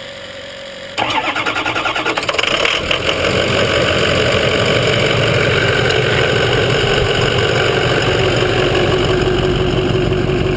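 Ford 6.0L Powerstroke V8 turbo diesel starting: it catches suddenly about a second in, runs rough and uneven for a couple of seconds, then settles into a steady idle.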